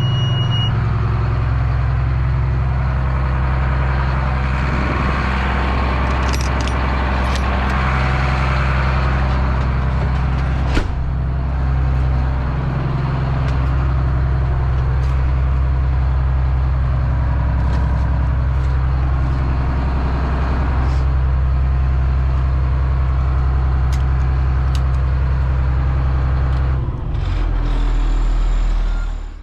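Caterpillar C7 inline-six diesel engine of a Blue Bird All American school bus running with a steady low drone, with occasional clicks and rattles. Near the end its pitch drops and the sound dips.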